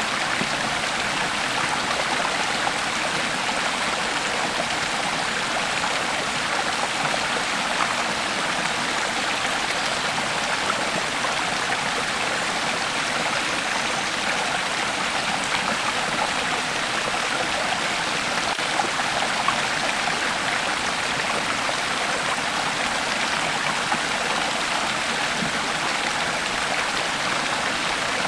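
Creek water flowing steadily over stones, a continuous rushing and burbling.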